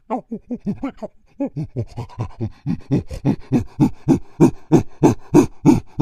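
Monkey calling in a fast rhythmic series of short panting hoots, about three a second, pausing briefly around a second in and then growing steadily louder.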